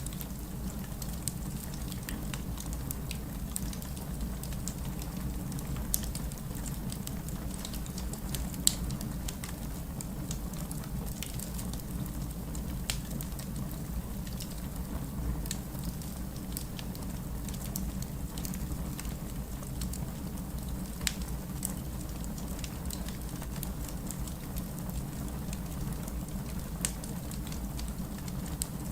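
Wood fire crackling, with scattered sharp pops and a louder one about nine seconds in, over a steady low rumble of rain.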